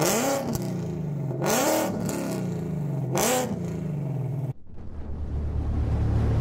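Whipple-supercharged 5.0 V8 of a 2019 Mustang GT free-revving three times, each blip rising sharply and dropping back to idle. About two-thirds of the way through it cuts off abruptly, and a low steady drone follows.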